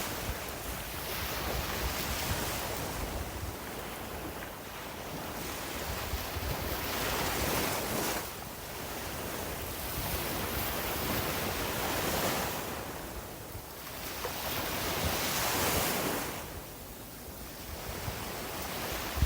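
Sea waves breaking and washing up a beach, the surf swelling and easing every few seconds.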